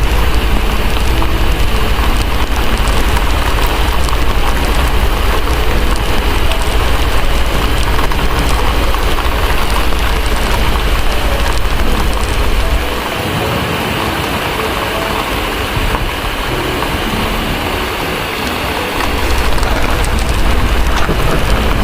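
Steady heavy rain hissing, layered over a deep low rumble that drops away for about six seconds midway and then returns.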